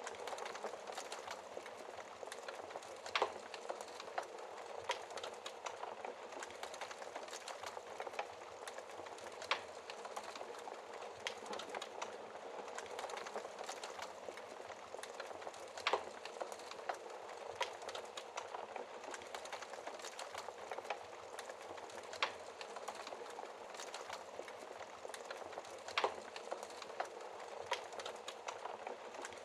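Wood fire burning in a fireplace: a steady dense crackle with sharp pops of splitting wood every few seconds.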